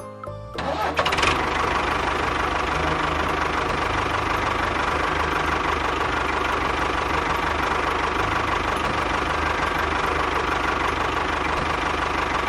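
A small engine starts up about a second in and then runs steadily at an even speed.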